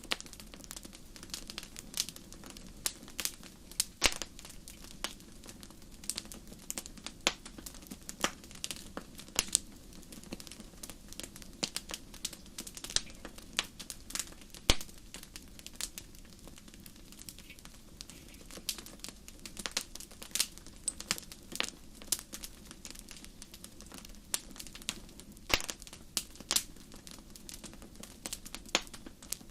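Wood campfire crackling: irregular sharp pops and snaps, several a second and uneven in loudness, over a low steady rush.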